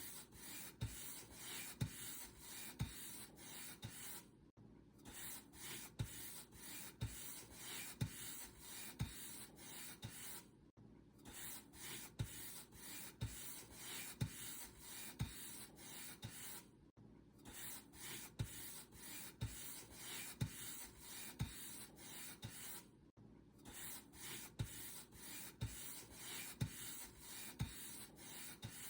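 Paint brush strokes rubbing across a surface, about one stroke a second, with a short break roughly every six seconds.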